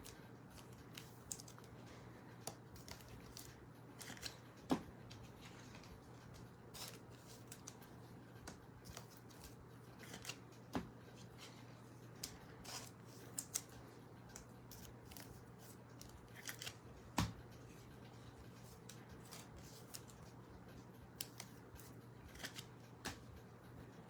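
Trading cards and card packs being handled: scattered light clicks and snaps over a faint steady hum, with a few sharper snaps about 5, 11 and 17 seconds in.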